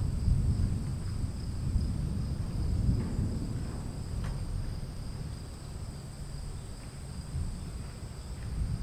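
Low rolling rumble of distant thunder in a storm, slowly fading away, over a steady high-pitched insect trill.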